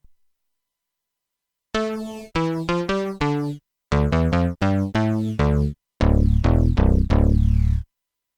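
Jeannie polyphonic DIY synthesizer playing three quick runs of short notes, starting about two seconds in after silence. The runs are separated by brief gaps, and the last run sits lower and is louder.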